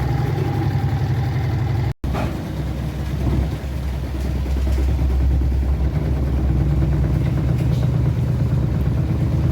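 Washing machine spinning with extraordinary vibration, a steady heavy low rumble as the machine shakes and shifts across the floor. The sound breaks off for an instant about two seconds in.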